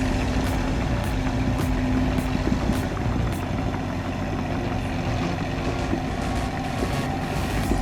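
Heavy diesel engine of a crawler bulldozer running steadily, with a low rumble and a steady hum.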